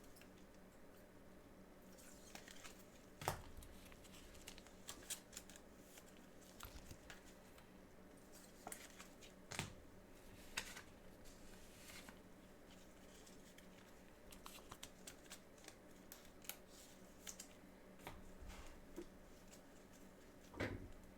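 Quiet handling of trading-card packaging: scattered taps and clicks with brief crinkling and tearing of wrappers as the next box is opened.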